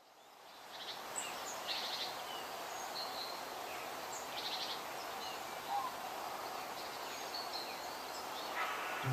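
Forest ambience of songbirds chirping and trilling over a steady hiss, fading in at the start.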